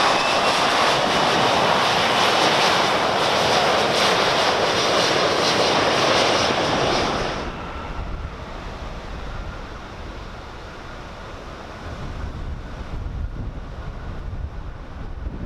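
Boeing 737-400's CFM56 turbofan engines running at high power on takeoff: a loud, wide jet roar with a faint rising whine. The roar drops off sharply about seven and a half seconds in, leaving a fainter engine sound under low wind rumble on the microphone.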